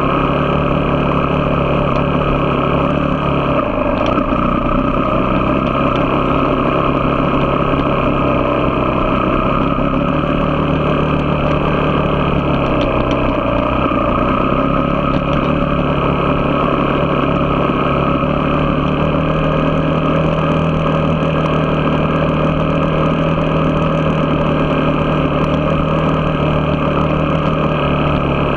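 A vehicle engine running steadily under way, with road and wind noise; its pitch dips briefly about 4 seconds in and again around 13 seconds in, then holds.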